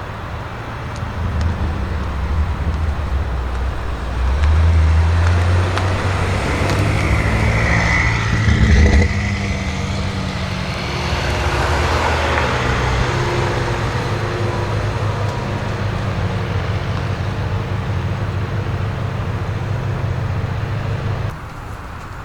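BMW M5 F90's V8, fitted with a SuperSprint exhaust, running at low revs with a steady low drone. It grows louder about four seconds in, peaks around nine seconds, and drops back about a second before the end.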